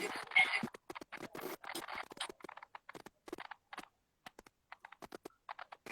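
Irregular series of soft clicks and taps with brief rustles, uneven in spacing and loudness.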